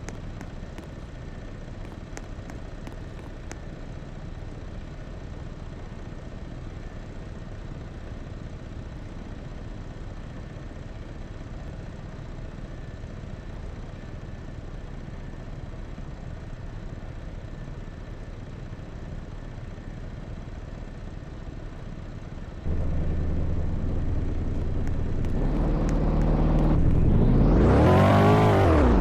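A steady low rumble of a vehicle on the move. About 23 s in it abruptly gives way to a louder motor vehicle engine, whose pitch rises and falls near the end as it revs.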